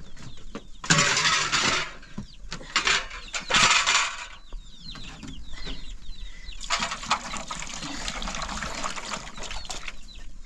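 Chickens clucking, with short curved calls all through. Loud bursts of rustling noise come about a second in, at four seconds, and again from about seven seconds on.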